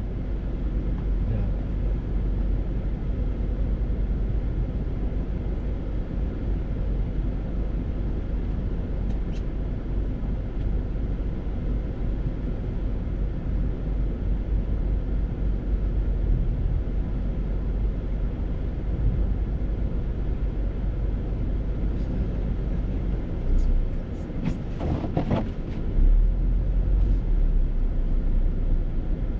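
Steady low rumble and road noise of a vehicle driving, with a brief louder sound about twenty-five seconds in.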